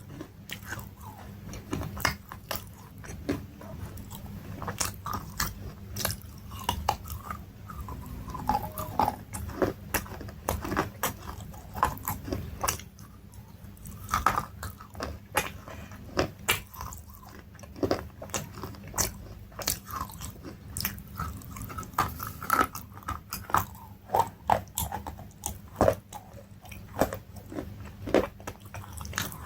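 A person chewing and biting crunchy food close to the microphone: a steady run of crisp, irregular crunches and mouth clicks.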